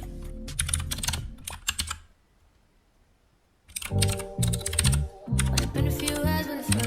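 Rapid typing on a computer keyboard over music. About two seconds in, both cut out to near silence for a second and a half, then resume.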